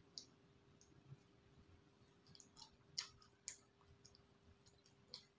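Faint wet mouth clicks and smacks of chewing soft bread, scattered and irregular, the sharpest about three and three and a half seconds in.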